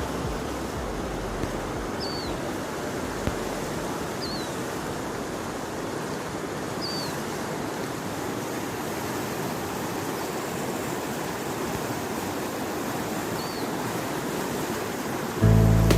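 Steady rush of flowing water, like a river or waterfall. A bird gives a short, high, falling chirp four times over it. Music comes in near the end.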